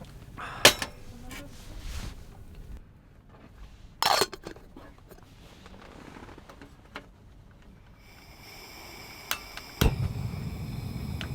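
A few sharp knocks and clinks of objects being handled or set down, the loudest about four seconds in. From about ten seconds in, a low rumbling noise sets in.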